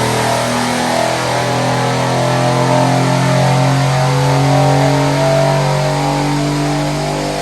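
Mercedes-AMG C63's twin-turbo V8, breathing through catless downpipes, pulling under load on a dyno, its pitch climbing steadily as the revs rise.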